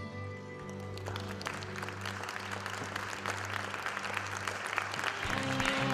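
Audience applauding at the end of a song, the clapping building over the song's held final chord. Near the end, new music with guitar comes in.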